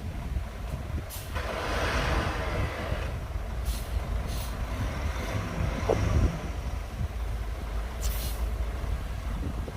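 Low, steady diesel rumble of a Komatsu D60-P bulldozer and a dump truck working dirt, broken by short sharp air-brake hisses about a second in, twice around four seconds, and about eight seconds in.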